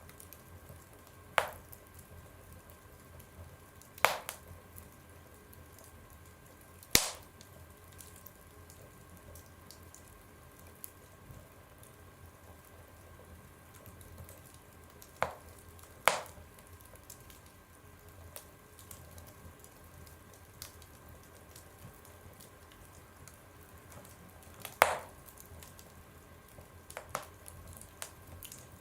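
Wood fire burning in a stove, with scattered sharp pops and cracks from the burning logs, about seven in all, over a faint steady hiss.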